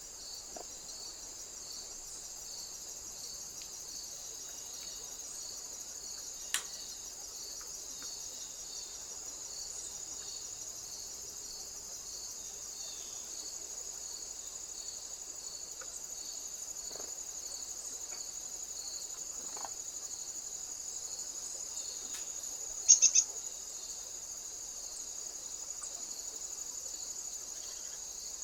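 Crickets chirping in a steady, continuous high trill. One sharp click comes about six seconds in, and a quick run of three sharp ticks, the loudest sound, comes a little before the end.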